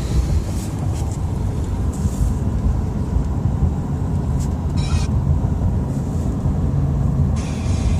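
Steady low rumble of a vehicle driving, heard from inside the car: engine and tyre noise. A brief hiss about five seconds in and a longer one near the end.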